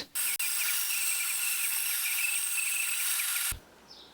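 A power tool running steadily for about three seconds, starting and stopping suddenly, with its sound mostly high and hissy.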